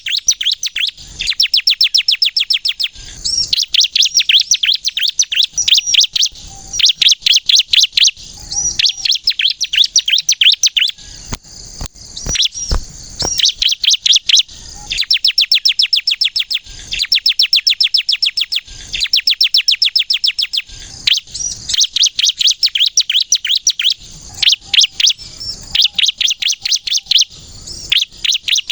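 Ciblek kristal, a bar-winged prinia, singing in full voice. It gives long, rapid-fire trains of high, sharp notes, about ten a second, in bursts of a second or more separated by short pauses.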